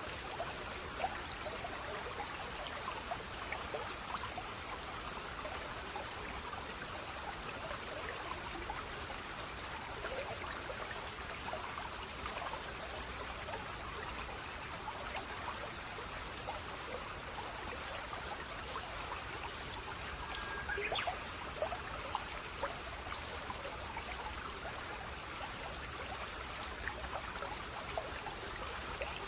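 Flowing water of a small stream trickling and gurgling steadily, with many small splashes and drips. There is a brief slightly louder patch about two-thirds of the way in.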